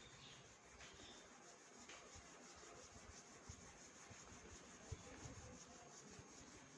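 Faint rubbing of tissue paper over oil pastel on paper as the colours are blended, with a few small ticks.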